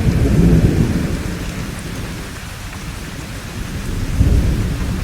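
Thunderstorm: rolling thunder over steady rainfall. The deep rumble fades through the middle and swells again near the end while the rain hiss holds steady.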